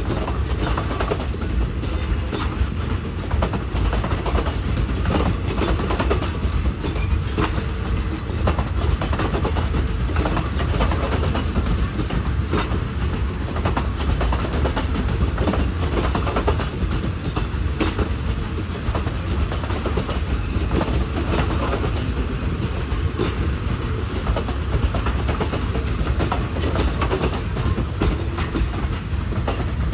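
A train running on the rails, its wheels clattering in irregular clicks over a steady low rumble.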